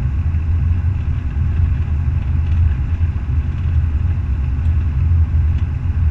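Semi truck's diesel engine running with a steady low drone, even in level throughout.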